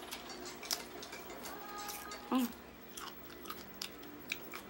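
Close-up chewing of crisp dried fish (boneless danggit) with rice: a run of crisp crunches and mouth clicks, with a brief voice sound about two and a half seconds in.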